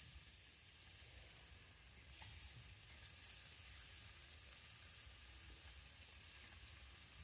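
Burger patties basted with barbecue sauce sizzling faintly and steadily on a hot grill.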